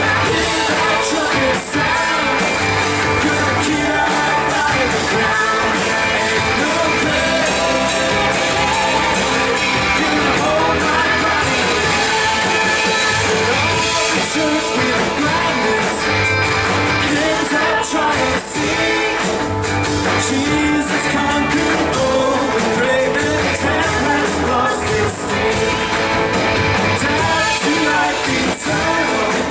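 Live worship band playing an up-tempo rock-style song, with guitar and singing over a steady beat.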